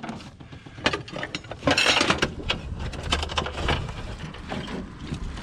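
A small tin being handled and opened: scattered clicks, clinks and rustling, with a denser rattle about two seconds in.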